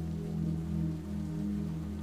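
Slow, calm ambient music of low sustained tones, with a soft rain sound mixed underneath.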